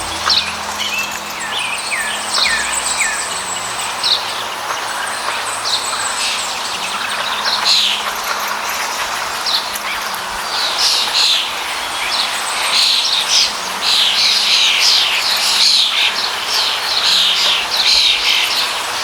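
Birds chirping, with many short, quick calls overlapping over a steady background hiss; the calls grow denser and louder in the second half.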